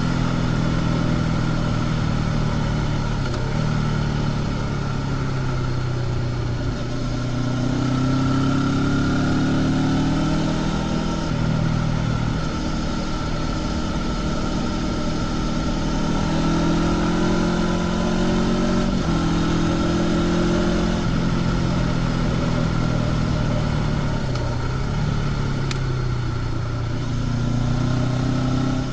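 Honda CB500X parallel-twin engine with stock exhaust, heard from the rider's seat while riding. The engine note rises and falls with the throttle, with several sudden steps in pitch.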